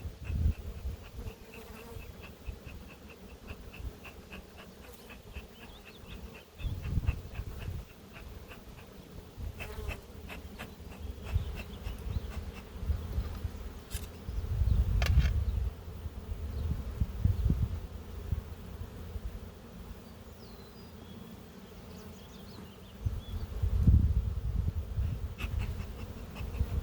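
Honeybees buzzing around an opened hive, a steady hum. Low bumps and rumbles come and go, the loudest about halfway through and near the end, with a quick run of faint ticks in the first few seconds and a few sharp clicks.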